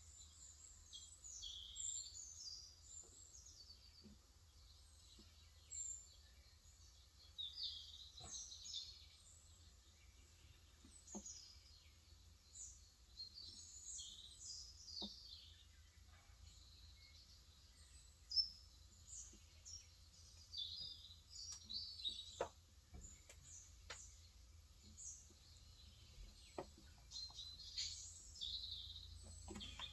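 Small birds chirping throughout in quick runs of short, high, downward-sliding chirps, faint overall. A keyboard's keys are pressed now and then, single soft clicks a few seconds apart, on a Cox Endeavor 35g electrostatic capacitive keyboard.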